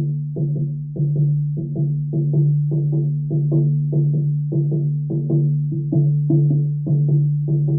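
Shamanic frame drum beaten in a steady rhythm, about three to four strikes a second, its deep tone ringing on between strikes.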